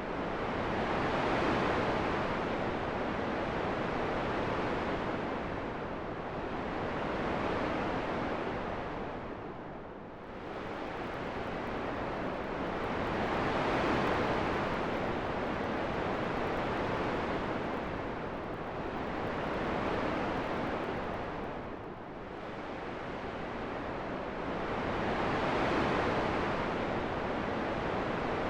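Continuous wind noise that swells and fades in slow gusts every few seconds, easing into deeper lulls about a third of the way in and again near three quarters.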